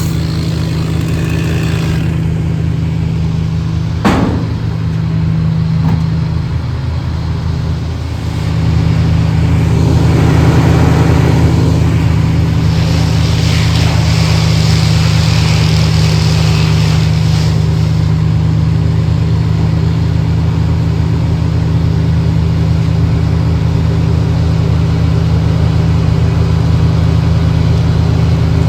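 An engine running steadily, with a sharp knock about four seconds in, getting louder about eight seconds in and then holding steady.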